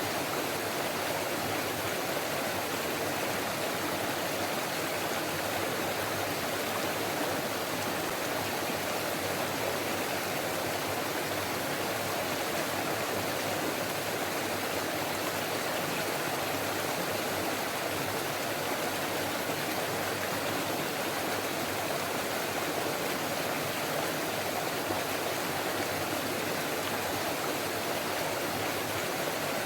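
Forest stream running over rocks in a steady, unbroken rush of water.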